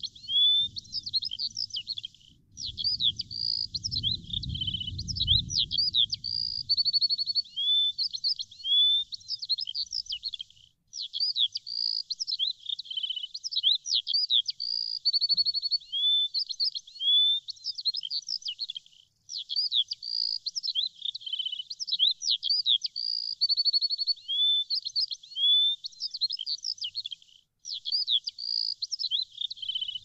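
Birds chirping and warbling in a steady stream of high-pitched chirps and short whistled notes that rise and fall. The same stretch of song repeats about every eight seconds after a brief break, like a looped recording.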